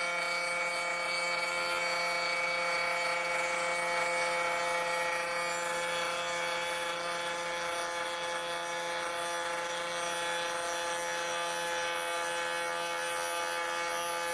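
CNC router spindle running steadily, a whine of several fixed pitches over a hiss, as it carves walnut.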